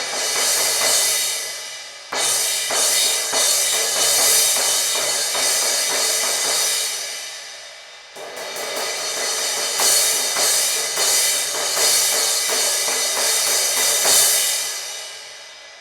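Zildjian 17-inch K Custom Hybrid crash cymbal being struck repeatedly in two runs of quick hits, each left to ring and fade. This is a sound test after its T-shaped edge crack was cut out into a U shape.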